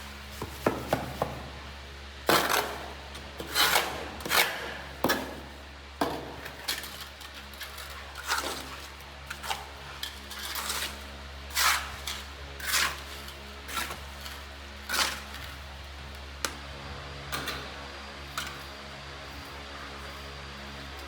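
A series of irregular sharp knocks and clanks, roughly one a second, thinning out near the end, over a steady low hum.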